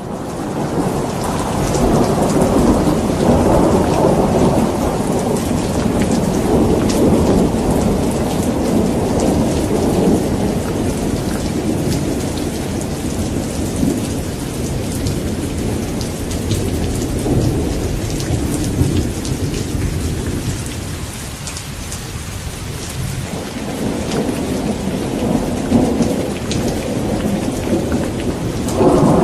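Steady rain with rolling thunder. The low rumble swells in the first few seconds, eases about twenty seconds in, and builds again near the end, with individual raindrops ticking over the hiss of the rain.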